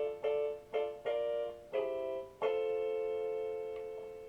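Shoulder keyboard playing a piano-like sound: a few short chords about half a second apart, then a final chord struck about two and a half seconds in and held, slowly fading as the song ends.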